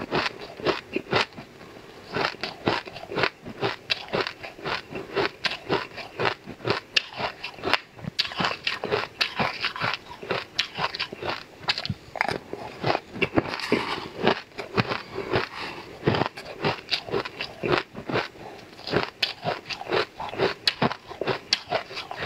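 Close-up mukbang eating sounds: a purple icy dessert crunched and chewed mouthful after mouthful, dense crackling crunches several times a second.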